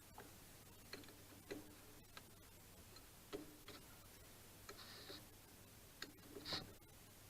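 Faint, scattered clicks and light knocks of metal parts being handled while a workpiece is set up in a lathe chuck, over a faint steady low hum.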